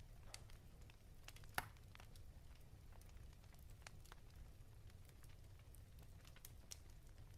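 Fireplace crackling faintly: scattered small pops and snaps over a low rumble, with one sharper pop about one and a half seconds in.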